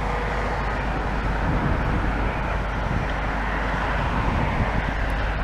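A demolition excavator's diesel engine running with a steady, even rumble.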